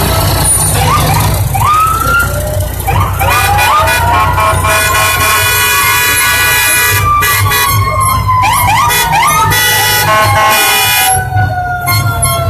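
Fire truck sirens sounding in short rising whoops, with one siren winding slowly down through the second half, and a long air horn blast in the middle, over a truck engine running.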